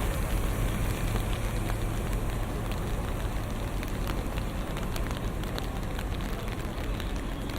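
Rain falling on city street surfaces, a steady wash with many scattered drop ticks, over a low rumble of traffic.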